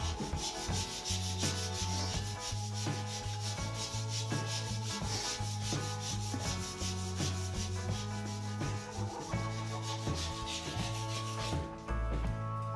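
Sandpaper rubbing against a new wooden snooker cue shaft: a continuous rapid rasping hiss over a steady low hum. The hiss breaks off near the end.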